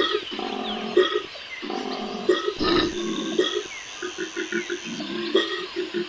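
Male koala bellowing: a long run of deep, rhythmic grunting pulses that repeat several times a second.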